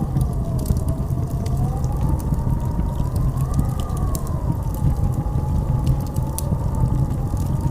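Blizzard wind howling: a deep steady rumble under a whistling tone that slowly rises and falls, with scattered light ticks.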